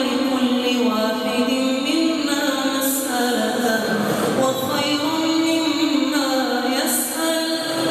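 A single voice chanting in Arabic in a long, melodic line of drawn-out held notes with ornamented runs, in the style of Quranic recitation or supplication. The line breaks briefly about four seconds in and again near the end.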